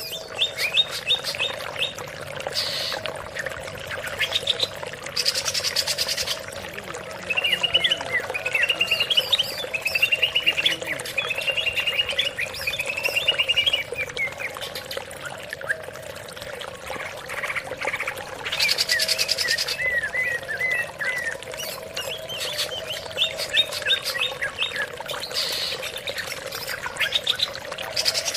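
Cucak ijo (green leafbird) singing: rapid chattering and trilled phrases repeated again and again, with short pauses between them. It is a lure recording, played to prompt a silent caged leafbird to start singing.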